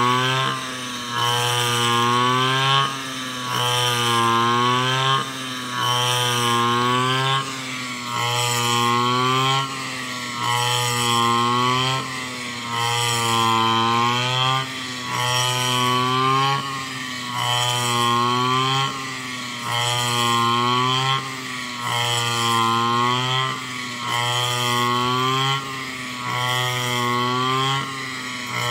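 Small engine of a backpack brush cutter fitted with a rice-cutting blade and cage, running hard. Its pitch and level dip and recover about every two seconds, as the blade is swung through the rice in repeated cutting strokes.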